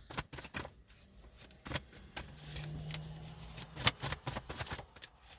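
Cards being shuffled and handled: a run of irregular flicks and rustles, with a sharper snap about four seconds in. A faint low hum sits under it for a second and a half in the middle.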